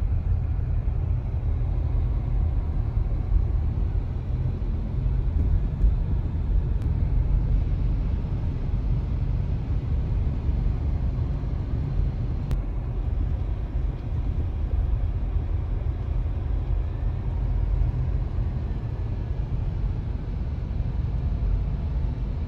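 Car driving on snowy roads, heard from inside the cabin: a steady low rumble of engine and tyre noise.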